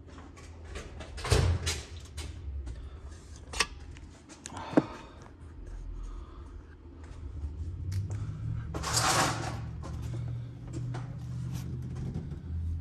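Metal hand tools knocking and clicking as spark plugs are checked and tightened with a socket on an extension, with a longer scraping rustle about nine seconds in.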